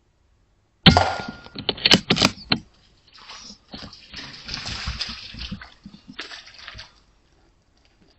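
A .22 Airmaks Krait L PCP air rifle shot about a second in, followed by a few sharp knocks and then several seconds of rough, irregular noise.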